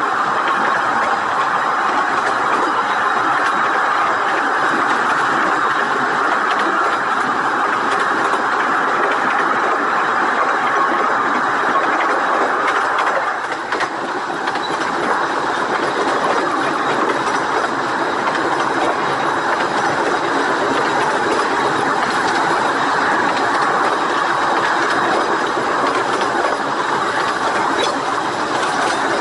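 Steady running noise of a 15-inch gauge Ravenglass and Eskdale Railway train on the move: its carriage wheels rolling and clattering over the rail joints, heard from an open carriage window. The noise dips briefly about halfway through.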